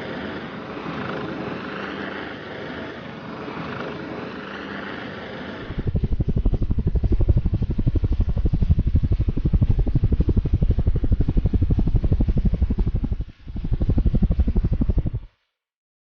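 A softer steady hum, then from about six seconds in the loud, rapid low beating of helicopter rotors close by, which breaks off briefly near the end and then cuts off suddenly.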